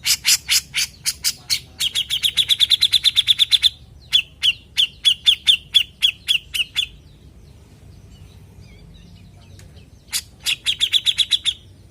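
Grey-cheeked bulbul (cucak jenggot) calling in rapid runs of sharp, repeated notes, about eight a second. It gives two long runs back to back, then a pause of a few seconds, then a shorter run near the end.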